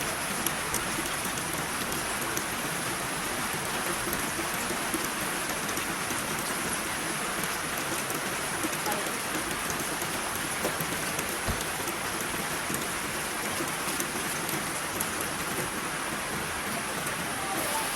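Heavy rain falling steadily: an even hiss with a few faint ticks of drops.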